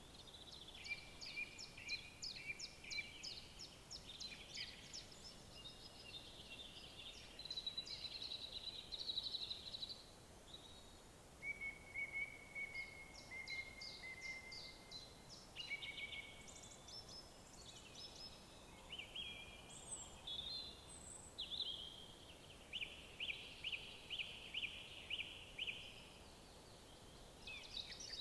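Several songbirds singing, with phrases overlapping: runs of rapid repeated notes, trills and a thin held whistle around the middle, over a faint steady background hiss.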